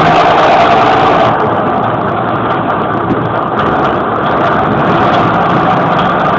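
John Deere 6820 tractor's diesel engine running unmuffled with no muffler fitted, loud and steady, easing off slightly after the first second.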